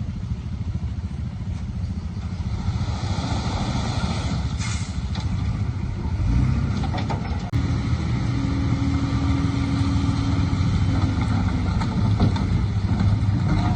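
Diesel engine of heavy earthmoving machinery running steadily with a low rumble, working a little harder about six seconds in, with a steady whine in the middle.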